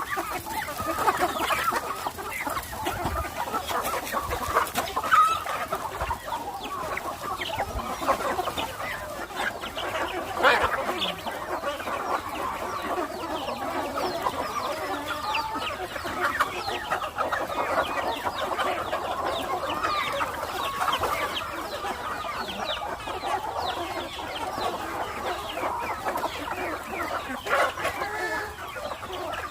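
A flock of country chickens clucking and calling all together, many short overlapping calls forming a continuous busy chatter.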